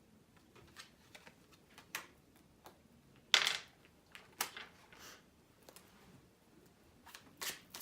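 Tarot cards being handled and shuffled: scattered soft flicks and snaps, the loudest about three and a half seconds in, with a quicker run of them near the end.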